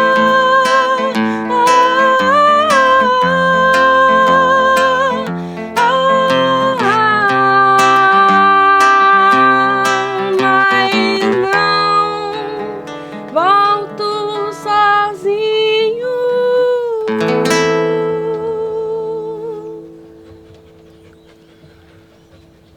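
Acoustic guitar plucking under long, wordless sung notes as the song closes; the last chord rings out and fades away about twenty seconds in.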